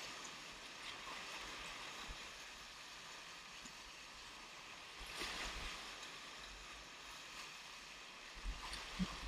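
Whitewater river rapids rushing, a steady hiss of moving water, with a louder splash about five seconds in and a couple of brief knocks near the end.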